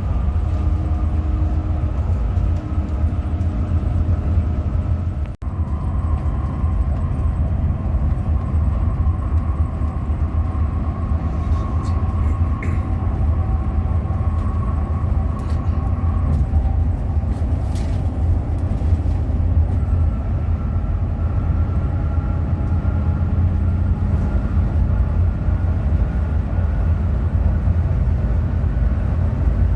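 A Hino RM 280 diesel bus on the move, with a steady low engine and road rumble and a faint whine that shifts in pitch now and then. The sound drops out for an instant about five seconds in.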